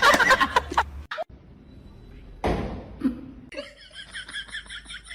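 A person laughing for about the first second. After a brief gap there is a short burst of noise, and from about three and a half seconds in a rapid, evenly repeated series of high chirps.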